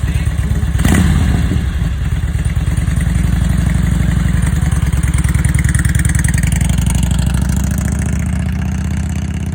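Motorcycle engine running with a fast, even pulse, a sharp clack about a second in, and a slight rise in engine speed in the middle before it settles back.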